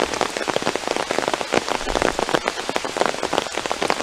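Heavy rain, with a dense, continuous pattering of individual drops striking close to the microphone.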